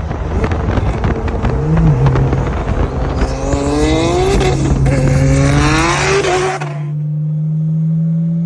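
Loud car engine revving, with pitched tones gliding up and down over rough noise, then settling to a steadier, slowly rising engine note about seven seconds in.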